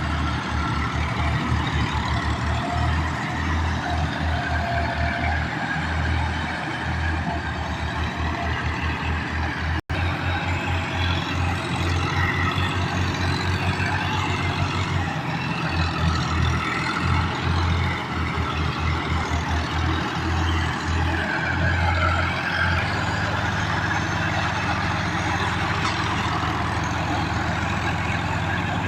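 Massey Ferguson 385 tractor's diesel engine running, a low throb under road and traffic noise. The sound cuts out for an instant about ten seconds in.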